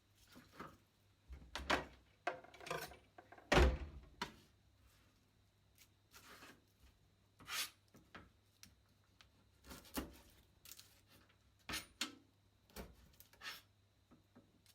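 Light knocks and short scraping rubs from garlic and kitchen utensils being handled, coming irregularly a dozen or so times, the loudest a thunk a little over three and a half seconds in.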